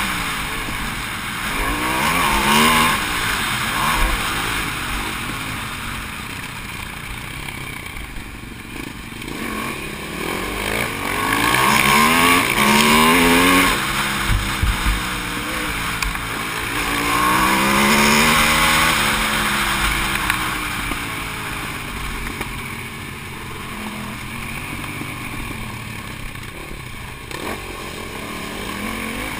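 Onboard sound of an Aprilia SXV supermoto's V-twin engine at race pace, revving up and falling back several times as the rider accelerates, shifts and brakes for corners. Wind rushes over the microphone throughout.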